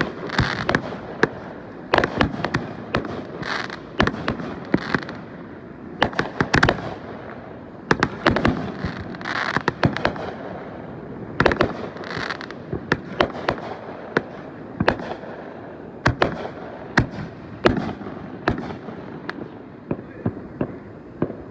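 Fireworks going off: a rapid, irregular string of sharp bangs, several of them followed by a brief crackling.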